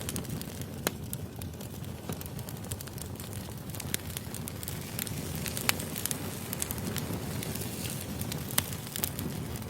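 Wood fire burning: a steady low rumble of flames with frequent sharp crackles and pops from the logs, a few louder snaps standing out about a second in, near the middle and near the end.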